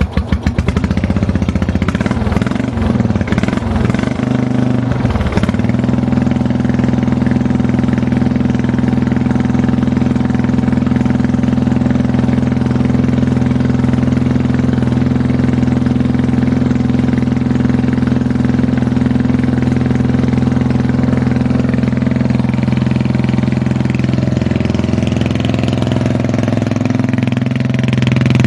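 Lawn tractor's small engine catching after cranking and running rough and uneven for about five seconds, then settling into a steady run.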